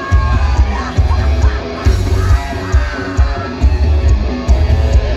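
Live rock band playing through a loud PA: distorted electric guitar riff over bass guitar and a driving kick drum, steady beat.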